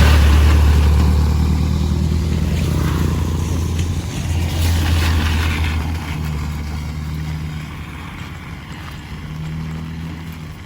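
A motor vehicle passing close by on the road, its low engine drone loudest at first and then fading slowly away, over steady rain.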